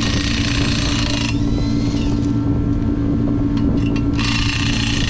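An engine idling steadily, with a hiss over it that drops away for about three seconds in the middle.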